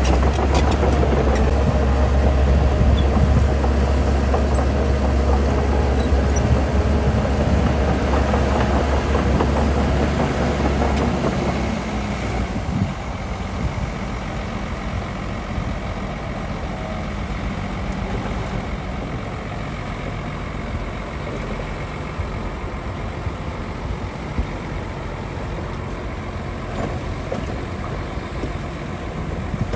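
Heavy diesel earthmoving machinery running loud with a deep rumble, easing off about twelve seconds in to a quieter, steady run.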